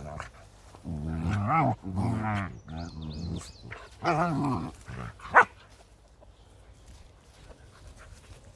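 Mastweiler (mastiff–Rottweiler cross) puppies barking and yelping in a run of short cries that rise and fall in pitch over the first five seconds. A single sharp knock follows about five seconds in.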